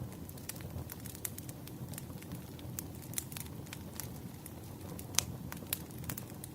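Wood fire crackling: irregular sharp pops and snaps over a steady low rumble of burning logs, with one louder pop about five seconds in.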